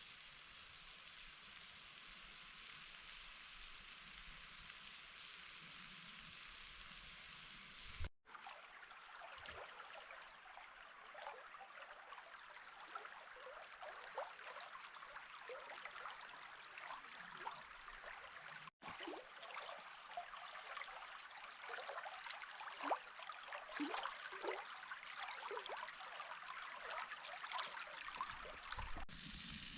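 Potatoes frying in oil in a pan. A faint steady sizzle gives way, after a brief break, to crackling with many small pops that grow denser toward the end.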